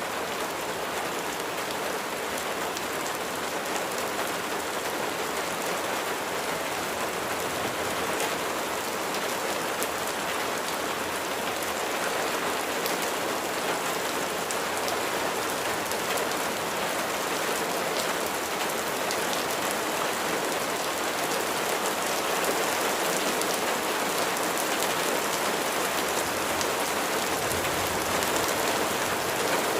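Steady rain falling, a continuous hiss of drops with small crisp droplet ticks scattered through it.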